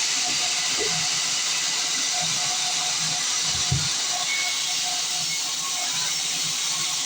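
Band sawmill blade cutting through a log, a steady, even hiss.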